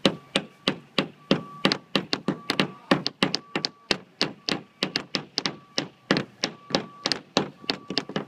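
Hammer blows driving nails into a wooden bird-feeder kit: a fast, steady series of sharp knocks, about three a second.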